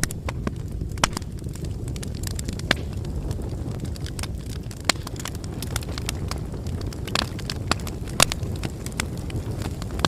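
Bonfire burning: a steady low rumble of flames with irregular sharp crackles and pops of the burning wood, the strongest pops about a second in, near the middle of the first third and a little past eight seconds in.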